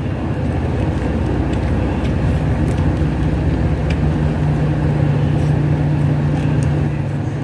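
Steady low engine hum of an idling car, its humming tone growing stronger about two and a half seconds in and easing a little near the end. A few faint clicks sound over it.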